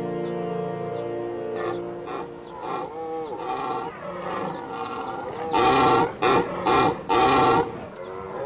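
Red deer stags roaring in the rut: a run of deep, arching bellows, the loudest three coming close together in the second half. Held music notes sound under the first couple of seconds.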